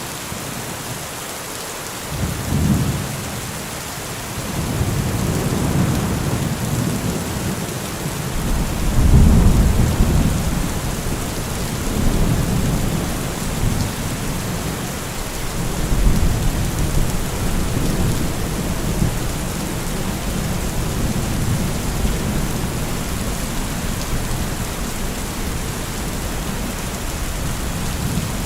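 Steady heavy rain hissing, with thunder rolling in low rumbles that begin about two seconds in and swell and fade several times. The loudest roll comes about a third of the way through.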